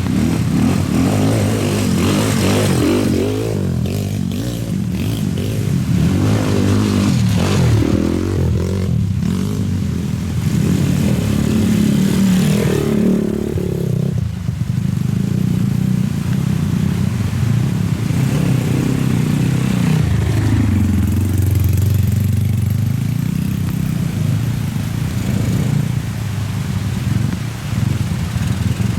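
Motorcycle engine running under way, its pitch rising and falling as the throttle is opened and closed.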